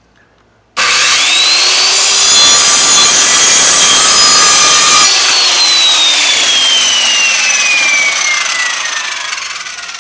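Circular saw starting up about a second in with a rising motor whine, then cutting through a wood board for about three seconds. The saw is then released and the blade spins down with a long falling whine.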